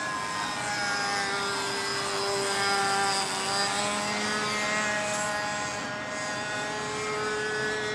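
Radio-controlled model airplane's motor and propeller whining in flight, with its pitch sliding down and then back up as it circles.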